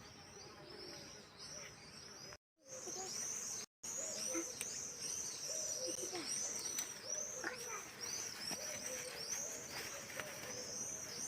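Birds singing: a fast, continuous series of repeated high arching chirps, with scattered lower notes beneath. The sound cuts out completely twice, briefly, in the first few seconds.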